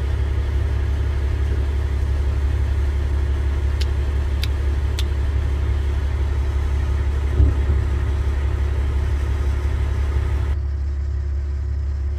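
Vehicle engine idling: a steady low drone, with a few faint clicks about four to five seconds in and a brief thump a little past the middle.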